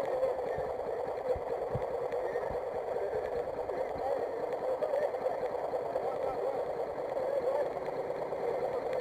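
Small dirt bike engine running steadily, its pitch wavering slightly, with a few low thumps.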